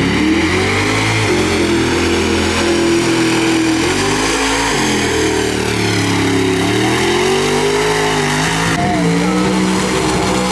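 Mud truck engine revving, its pitch climbing and dropping again several times as the throttle is worked.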